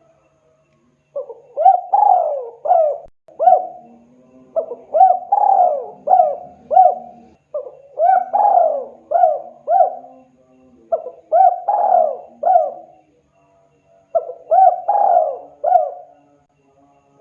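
Spotted dove (tekukur) cooing. It gives a phrase of four or five coos about every three seconds, five phrases in all, starting about a second in.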